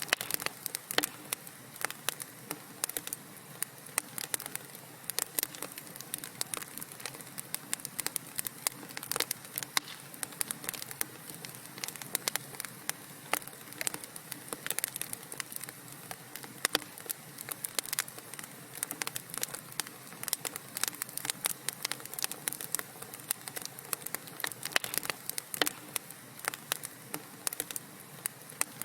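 Wood fire crackling in a fireplace: many irregular pops and snaps over a soft, steady hiss.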